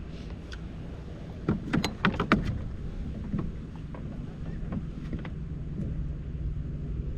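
Steady wind and water noise on the microphone aboard a fishing kayak, with a quick run of several sharp knocks and clatter about a second and a half in.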